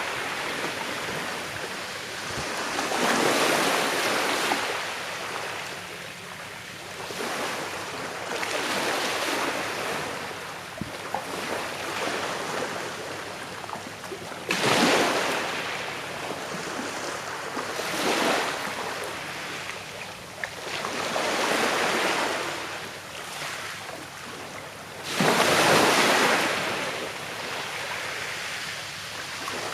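Small sea waves breaking and washing on a shore, a steady hiss that swells with each wave every few seconds, the strongest surges sudden and sharp.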